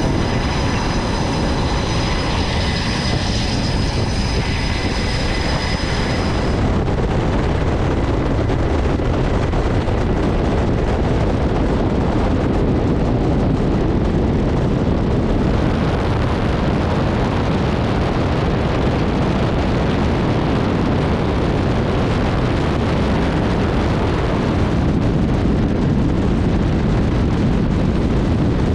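Jet aircraft engines running: a loud, steady roar, with a high whine over it that cuts off about six seconds in.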